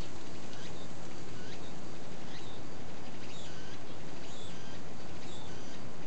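Small birds chirping in short, high calls scattered throughout, over a steady outdoor hiss.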